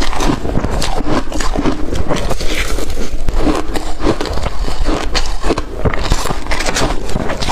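A person chewing mouthfuls of blender-crushed ice, with many crisp crunches in quick, irregular succession.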